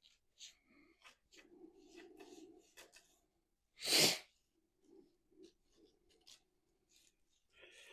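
Small clicks and brief rustles of engine parts and tools being handled, with one loud short burst of noise about four seconds in.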